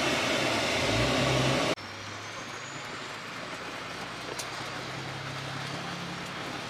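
A vehicle engine running with a low, steady hum. About two seconds in the sound drops abruptly to a quieter, steadier drone.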